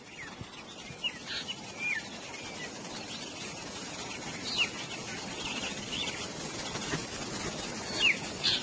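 Wild birds chirping: many short, high calls, mostly falling in pitch, scattered through, loudest near the end, over a steady outdoor background hiss.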